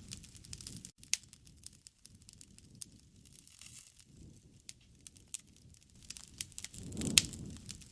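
Wood campfire crackling, with irregular sharp pops and snaps. Near the end there is a brief louder low rush with a strong pop.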